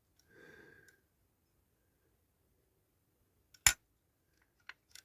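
A single sharp click from handling a diecast model car, with a couple of faint ticks after it, against near silence.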